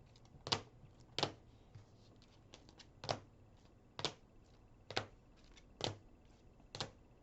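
Trading cards being handled and set down on a table: a series of sharp taps, about one a second, with a few fainter ticks between.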